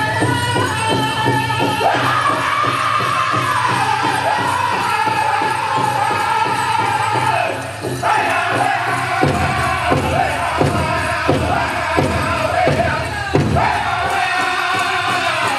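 Powwow drum group singing a contest song: high voices on a melody that steps down in pitch over a steady big-drum beat. In the middle the drum strokes turn louder and slower for a few seconds, then the faster beat returns.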